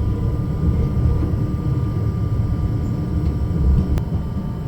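Steady low rumble of a Matterhorn Gotthard Bahn train running along the track, with a faint steady tone above it and a single sharp click about four seconds in.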